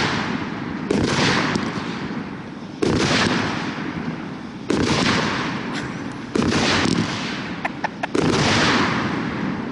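A 200-gram, 16-shot consumer firework cake firing shot after shot: five loud reports about every two seconds, each dying away over a second or so, with a few small crackles just before the last one.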